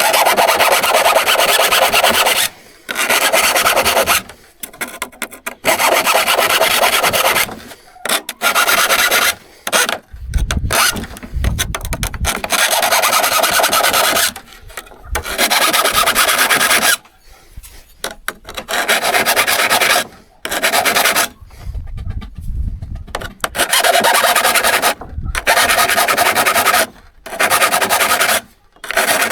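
Rasping hand strokes across the steel of a vintage hand saw, about a dozen strokes each one to two seconds long with short pauses between.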